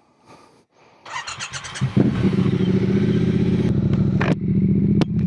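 Triumph Bonneville T120's parallel-twin engine being started: a brief rapid churn of the starter about a second in, then the engine catches and settles into a steady idle. A few short knocks sound over the idle near the end.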